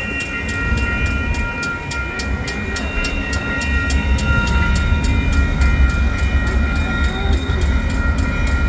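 Amtrak Hiawatha passenger train passing, a heavy low rumble that grows louder about halfway through. Over it run several steady high tones and a fast, even ticking of about four or five a second.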